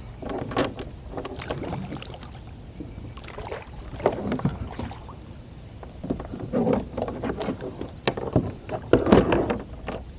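Irregular knocks and water splashes around a fishing kayak, the loudest cluster about nine seconds in.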